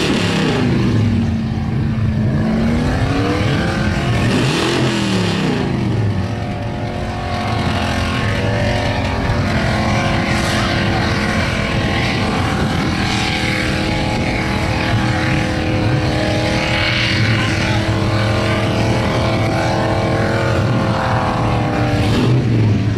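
Holden VP Commodore's 5-litre V8 at high revs during a burnout, the rear wheels spinning in thick tyre smoke. The revs drop and climb twice in the first five seconds, then hold high and steady.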